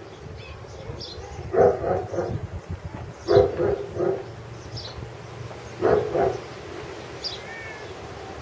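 Dogs barking in three short bouts of several barks each, about a second and a half, two and a half seconds, and again near the end apart. Faint high bird chirps sound between them.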